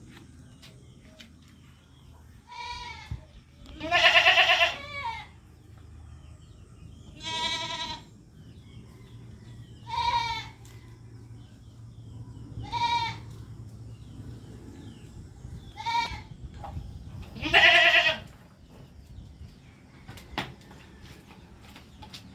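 Goat bleating over and over: about seven quavering calls, each under a second long, spaced a few seconds apart. The loudest come about four seconds in and near the end.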